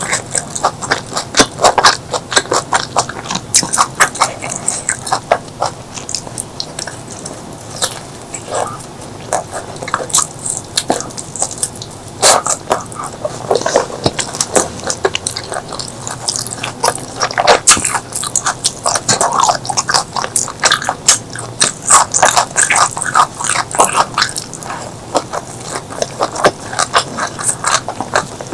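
Close-miked eating: chewing and biting food with a steady run of quick wet clicks, smacks and crunches.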